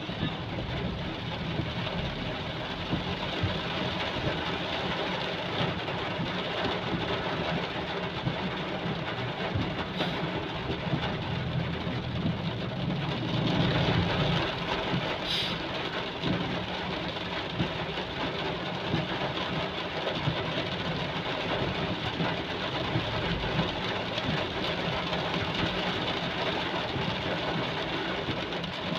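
Heavy rain falling steadily, a dense even hiss that swells briefly about halfway through.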